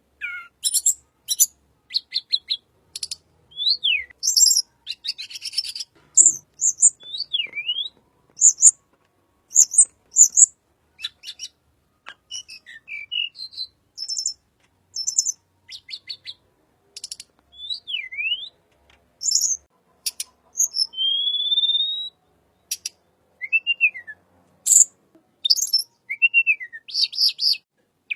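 A songbird known in Indonesia as tledekan sings a varied, rapid series of high-pitched notes: short clicky chirps and buzzy trills mixed with quick whistled glides that swoop down and up. A longer rising whistle comes about three quarters of the way through.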